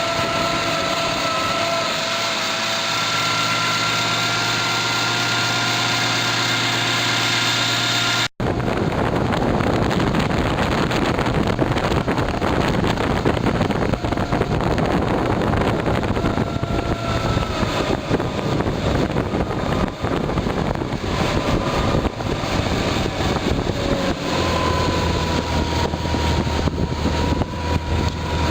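1973 Evinrude 18 hp two-stroke outboard motor running at steady speed. About eight seconds in the sound cuts and is replaced by a loud rush of wind on the microphone and water noise while underway, with the motor's drone underneath.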